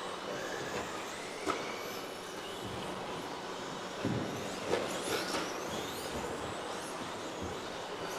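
Several electric RC racing trucks with 13.5-turn brushless stock motors running on the track, their motors whining up and down in pitch as they accelerate and brake. A few sharp knocks come about a second and a half in and again around four to five seconds in.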